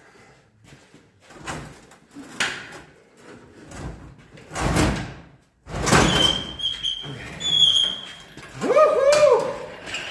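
Metal knocks, scrapes and squeaks as a worn-out 350 V8 is worked up and out of the engine bay on an engine hoist, with a steady high squeal in the middle and squeaks that rise and fall near the end.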